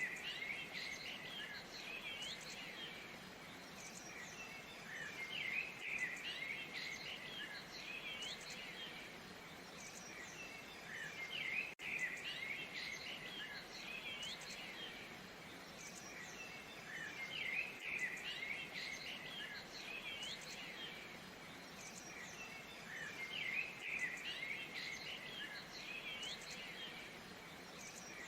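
Several small birds chirping and trilling, short calls and quick sweeps that swell into busy clusters about every six seconds, over a faint steady rush of water.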